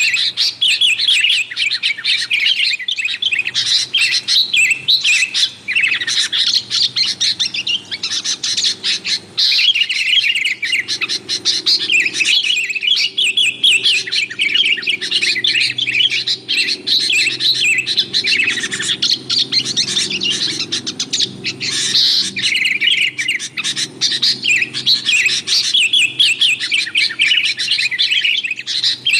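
Sooty-headed bulbuls (kutilang) calling and chattering busily, a dense run of overlapping chirps with no pause.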